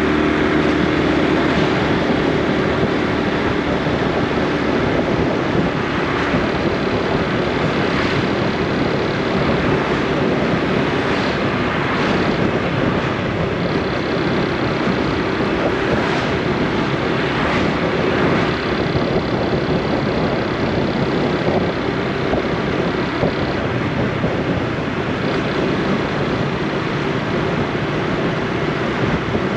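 Honda Super Cub C125's single-cylinder four-stroke engine and exhaust running steadily as the motorcycle is ridden, mixed with road and wind noise.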